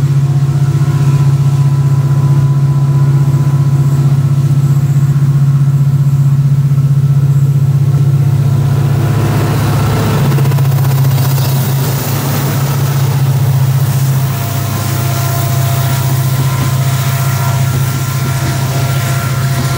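Two CC 205 diesel-electric locomotives running with a steady low engine drone. About halfway through, the rushing noise of the loaded coal wagons rolling on the rails rises under it.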